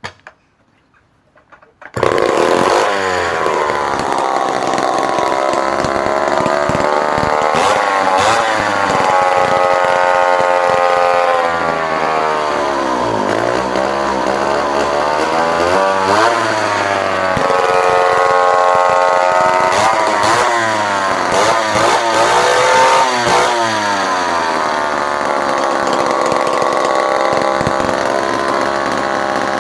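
Homelite C51 77cc two-stroke chainsaw engine, with its bar and chain off, catching about two seconds in and running loud, revving up and down again and again with its pitch rising and falling.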